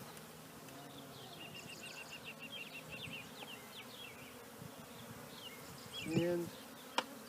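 Honey bees buzzing around an open hive, a steady low hum. Quick high chirps run through the first few seconds, a short loud pitched sound comes a little after six seconds, and a sharp click follows just before the end.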